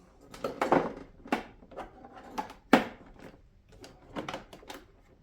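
Irregular clicks and knocks of hard plastic center console parts being handled while their retaining clips are worked loose; the sharpest knock comes a little under three seconds in.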